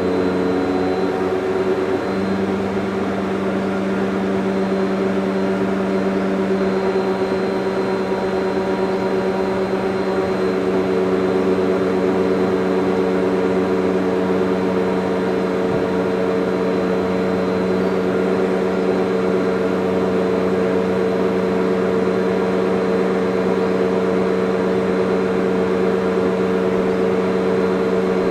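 Vacuum cleaner running steadily, a continuous motor hum with a slight shift in its tone about two seconds in.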